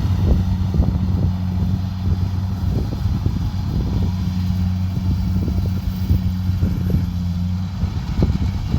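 Kubota DC70 Pro combine harvester running steadily, a constant low diesel engine drone with frequent irregular low thuds over it.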